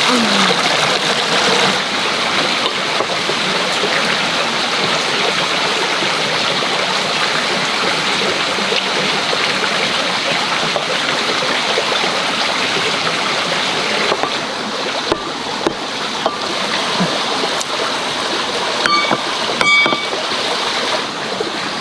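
Steady rush of running water, like a stream flowing. It eases slightly past the middle, and a couple of short light clinks come near the end.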